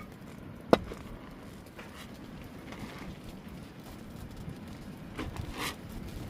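Wood campfire crackling softly, with one sharp knock under a second in and some clattering handling noises near the end.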